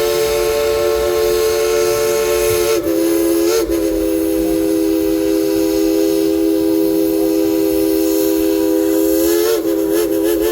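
Steam locomotive's chime whistle blowing one long, loud blast: a chord of several steady tones, with brief wavers about three seconds in and again near the end.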